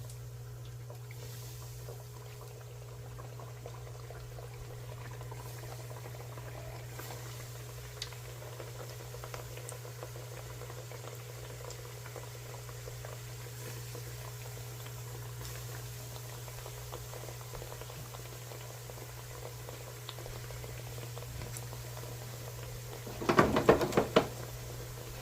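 Beignet dough deep-frying in hot oil: a steady faint sizzle and crackle over a steady low hum. About 23 seconds in, a short burst of loud rattling knocks lasting about a second.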